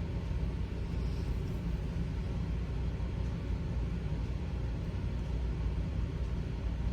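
Steady low background rumble that holds even throughout, with no distinct events.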